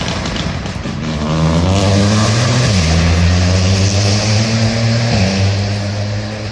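Rally car engine accelerating hard. Its pitch rises, then drops sharply about three seconds in and again about five seconds in.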